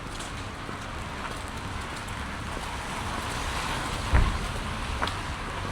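Rain on wet pavement, with the hiss of a car's tyres on the wet street swelling slowly; a single low thump about four seconds in.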